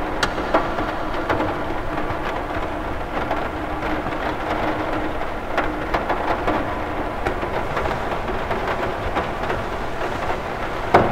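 Rain falling on a cathedral window: a steady hiss of rain with many separate drops tapping on the glass, one louder hit near the end.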